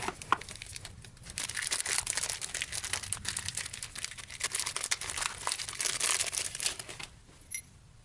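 A dense, scratchy crinkling rustle, like paper or plastic being crumpled or a surface being scrubbed. It starts about a second in and stops suddenly about a second before the end, followed by a single small click.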